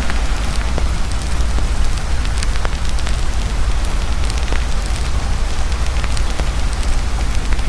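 Heavy rain pouring steadily over a crackling campfire, with scattered sharp pops and clicks throughout and a constant low rumble beneath.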